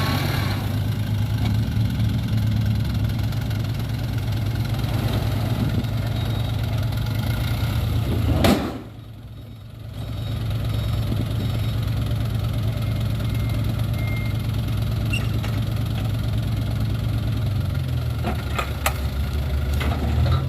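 Toyota Dyna 130HT dump truck's diesel engine running at a steady idle. It breaks off briefly about eight and a half seconds in, then carries on as before.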